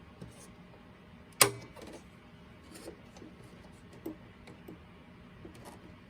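Scattered small clicks and taps of hand tools working on a boombox's plastic speaker grill and casing, with one sharp click about a second and a half in as the loudest.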